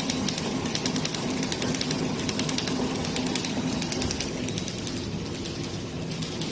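Automatic water-soluble film packaging machine for dishwasher pods running: a steady mechanical hum with rapid, continuous clicking and clatter.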